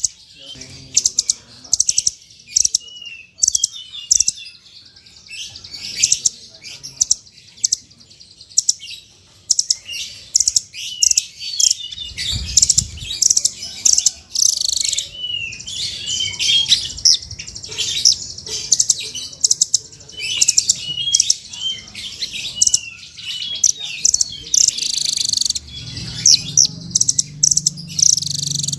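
A songbird singing a fast, varied stream of sharp chirps and short gliding whistles, a 'fighter'-style master song of the kind played to teach caged songbirds. A low hum comes in near the end.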